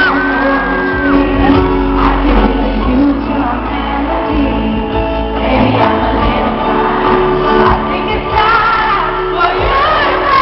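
A live pop ballad heard from the audience in a large arena: a female lead voice holds long high notes over steady sustained chords. The crowd shouts and sings along loudly, with scattered whoops, and the hall's echo is plain.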